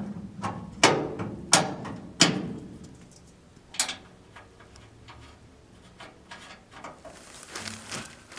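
Three sharp knocks over the first two and a half seconds and a weaker one near four seconds, then quieter clatter: hand work on fitting a pickup's bumper, tapping and handling parts into place.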